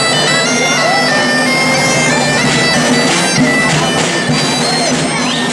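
Reed pipes playing a folk melody in a bagpipe-like sound, with held notes and quick ornamental turns over a steady low drone.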